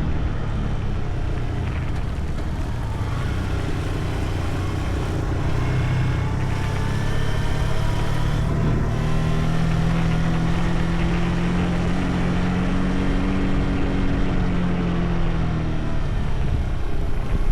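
Motorcycle engine running at cruising speed with wind and road noise, its pitch rising and falling slightly.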